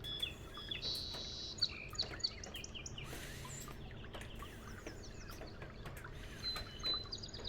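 Small birds chirping and whistling: a scatter of short, high chirps and quick up-and-down notes, with one longer steady high whistle about a second in.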